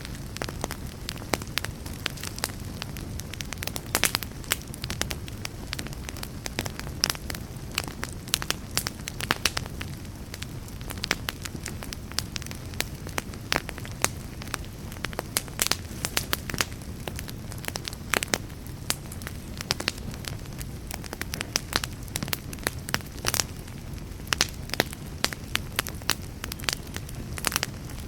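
Wood fire burning, a steady low rumble of flames with frequent sharp, irregular crackles and pops.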